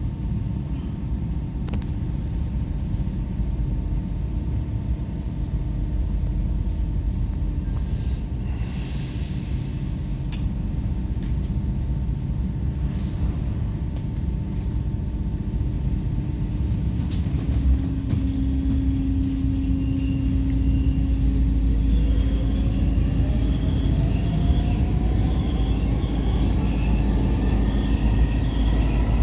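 First-generation Brussels metro train (M1–M5 stock) running with a steady low rumble, a brief hiss of air about a third of the way in. From about two-thirds in, a whine from its traction motors rises steadily in pitch as the train picks up speed.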